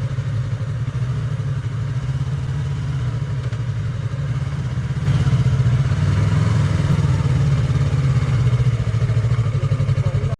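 Motorcycle engine running steadily while riding, a continuous low drone that gets louder about halfway through.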